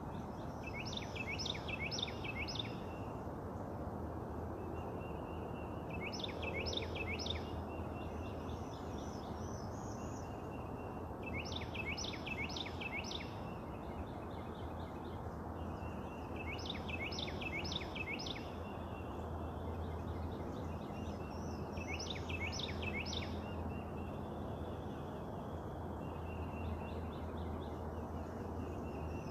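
A songbird singing the same short phrase of three or four quick notes five times over, about every five seconds, with fainter bird calls between the phrases. Under it runs a steady low outdoor rumble.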